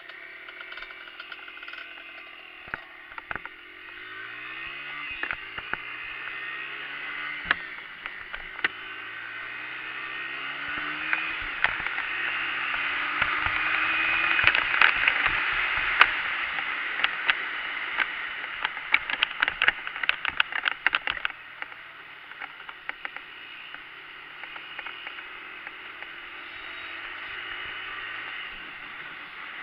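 Dirt bike engine revving up through the gears, its pitch climbing again and again. It grows louder toward the middle and then fades, with scattered sharp clicks and knocks.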